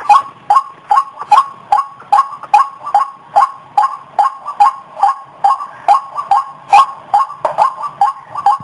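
White-breasted waterhen (ruak-ruak) calling in a fast, unbroken series of short two-pitched notes, about two or three a second, played as a bird lure call.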